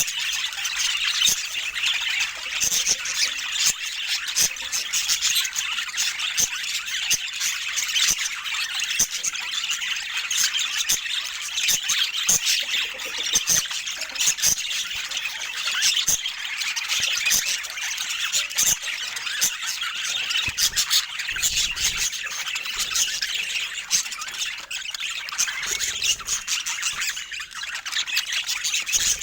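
Pet budgerigars chattering: a dense, continuous high-pitched warble full of quick clicks and sharp chirps.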